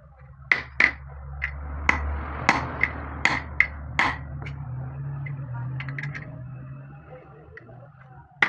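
A hammer striking metal about ten times at an uneven pace, each blow sharp with a short ringing note, over a low steady rumble that fades out near the end.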